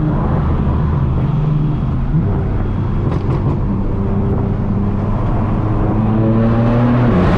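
Straight-piped BMW M4 F82's twin-turbo inline-six exhaust droning at steady road speed. The pitch steps down about two seconds in, climbs slowly, then falls sharply near the end.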